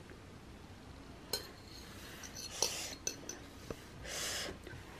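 Cutlery clinking lightly against a plate as food is picked up, a few separate clicks, with a short hiss about four seconds in.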